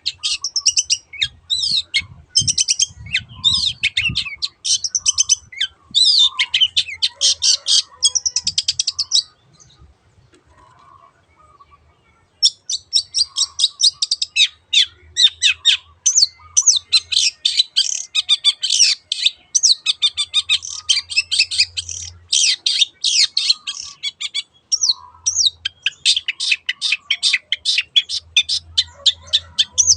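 Long-tailed shrike (cendet) singing in rapid runs of high chattering notes, with a break of about three seconds partway through.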